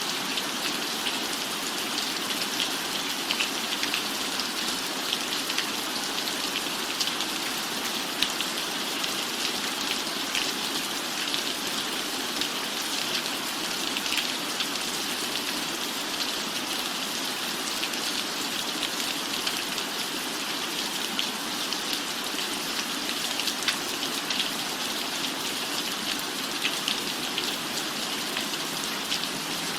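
Steady rain falling on a roof, an even hiss dotted with many small drop ticks.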